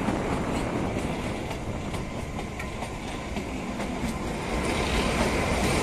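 Kalka–Shimla narrow-gauge toy train coach running on the rails, heard from an open doorway: a steady rumble with wheel clatter as the train passes through a short tunnel.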